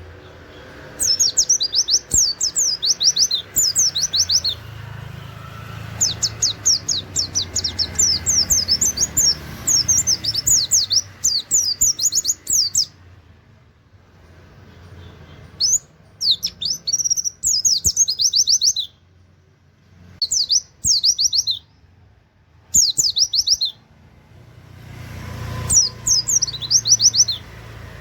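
White-eye (pleci) singing in bursts of quick, high, down-slurred notes, the rapid-fire 'nembak' song with 'wit wit' and canary-like phrases. There are six phrases, the longest lasting about seven seconds, with short pauses between them.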